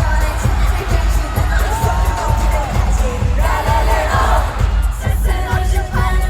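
K-pop dance track with a pounding, evenly repeating bass beat and female singing, played loud through a concert sound system during a sound check.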